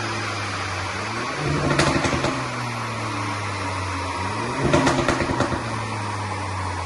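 A Ford Fiesta ST Mk8's turbocharged three-cylinder engine and exhaust being revved: twice, at about a second and a half and near five seconds in, the revs shoot up sharply with a burst of pops and crackles from the exhaust. Between the blips the revs sink slowly back.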